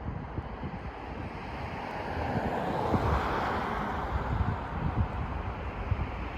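Wind rushing over the phone microphone, with a gusty low rumble, swelling to its loudest about halfway through and easing off again.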